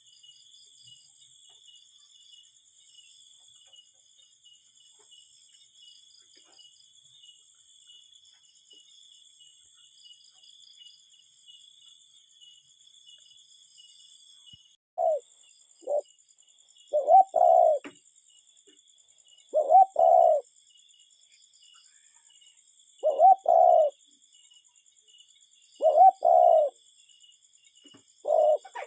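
Cuckoo calling its two-note 'cu-ckoo', starting about halfway in and repeating roughly every two to three seconds, about six times. High insect trilling runs faintly underneath.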